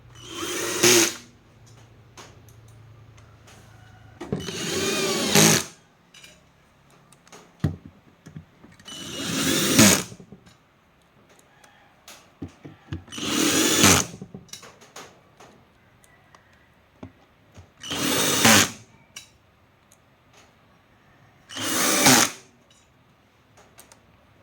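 Power drill run in six short bursts about four seconds apart. Each lasts about a second, with a whine that rises in pitch and then stops sharply.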